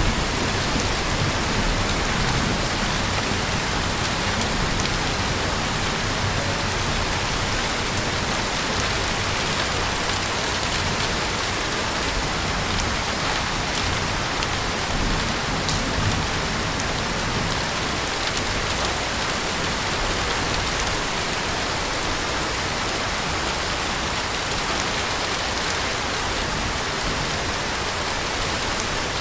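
Heavy rain falling steadily: an even, dense hiss with scattered ticks of individual drops.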